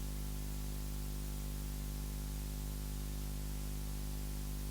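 Steady low electrical hum with even hiss over it, unchanging throughout.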